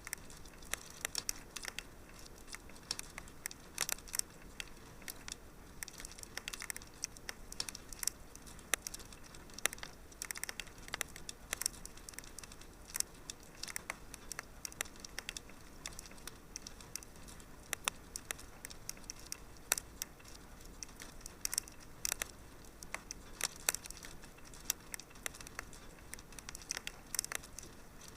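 Wood fire crackling and popping in a fireplace: irregular sharp snaps, many each second, over a soft steady hiss.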